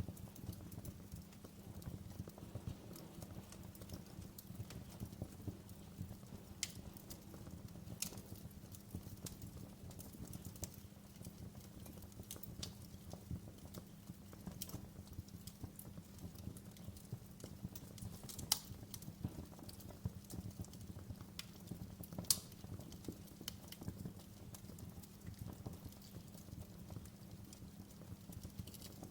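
Wood fire crackling in a fireplace: a steady low rumble from the flames with scattered sharp pops and snaps. The two loudest snaps come about two-thirds of the way through.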